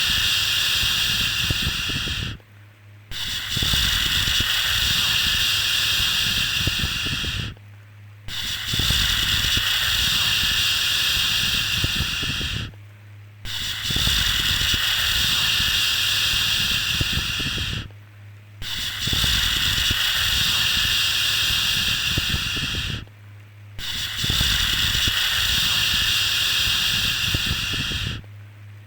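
Baby-soothing 'shhh' shushing sound: long, steady hisses of about four and a half seconds each, separated by short breaks of under a second, repeating about every five seconds. There is a faint low hum underneath.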